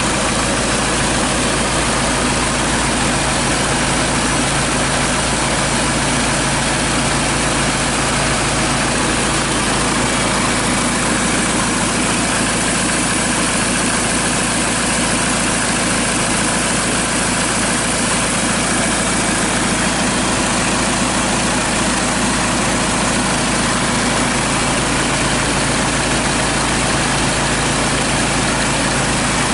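Kia Sorento D4CB 2.5-litre four-cylinder common-rail turbodiesel idling steadily, run out of the car on a test stand for an oil-pressure check.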